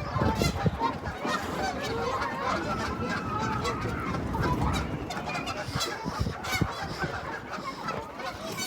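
A flock of geese honking, many short calls overlapping.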